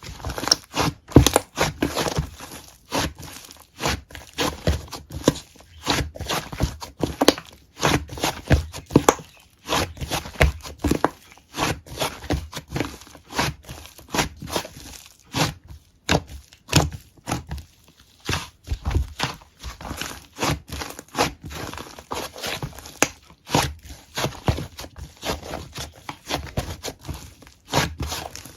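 Slime being squished and worked by hand, giving a continuous run of irregular crackling clicks and pops, several a second.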